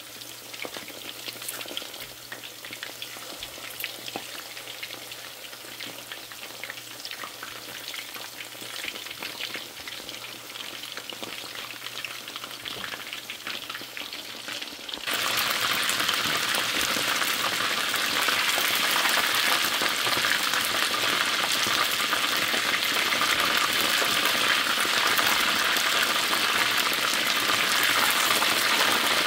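Chicken wings frying in hot oil: a steady crackling sizzle. About halfway through the sizzle suddenly becomes much louder and denser, and a low steady hum under the first half stops.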